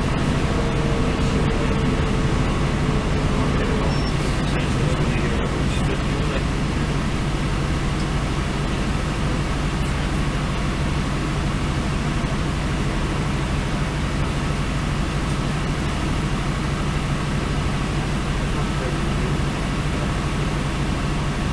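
Diesel passenger train running at speed, heard inside the carriage: a steady low engine drone with constant rolling and rail noise.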